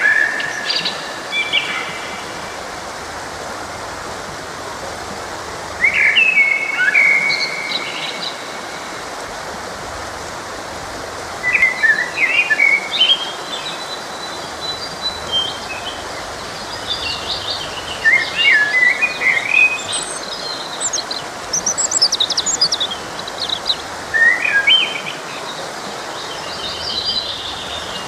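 Songbirds singing in short, separate phrases of quick chirps and trills over the steady rush of a forest stream.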